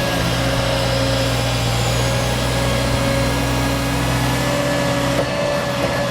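Diesel engine of a Volvo L200H High-Lift log loader running steadily.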